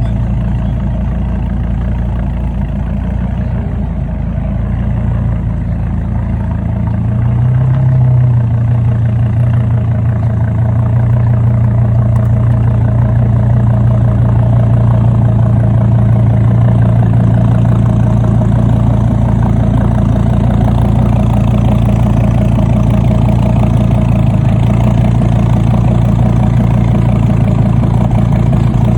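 Car engine idling with a steady low drone; it rises slightly in pitch and grows a little louder about seven seconds in, then holds steady.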